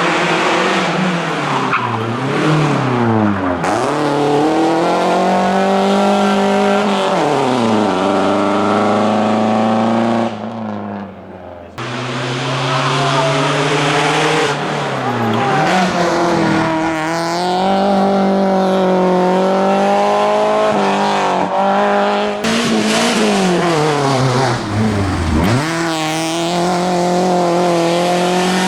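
Hyundai Accent hillclimb car's engine revving hard through the gears, its pitch climbing under acceleration and dropping on lifts and downshifts several times over. The sound drops away briefly about ten seconds in, then comes back.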